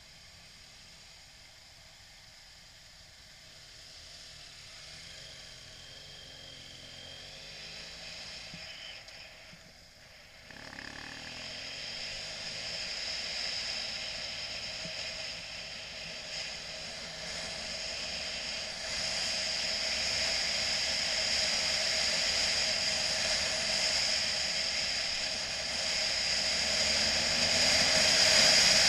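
Motorcycle on the move: a steady hiss of wind and running-engine noise. It starts faint, jumps up about ten seconds in, and keeps getting louder.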